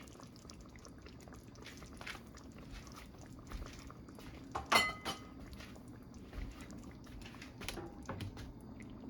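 Faint bubbling and crackling of a coconut-milk cream sauce in the pan, with one metallic clink about five seconds in.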